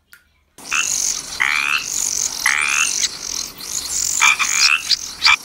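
Frog croaking: a series of short calls, each about half a second long and roughly a second apart, over a steady high hiss. The sound starts about half a second in.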